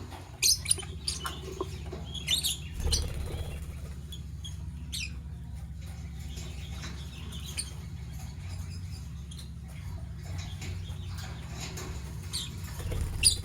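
Lovebirds giving scattered short, high-pitched chirps, the loudest about half a second in and near the end, over a steady low hum.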